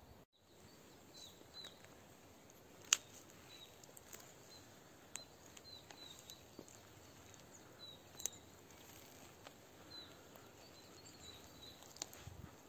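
Quiet outdoor ambience with scattered short, high chirps and a few sharp clicks, the loudest click about three seconds in.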